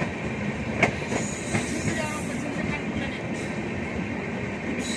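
Passenger coach of the Paschim Express running along the track: a steady rumble of wheels on rail, with a sharp knock about a second in and another shortly after.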